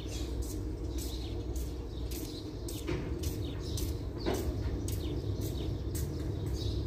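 Small birds chirping, short high chirps several times a second with a few longer down-sweeping calls, over a steady low rumble.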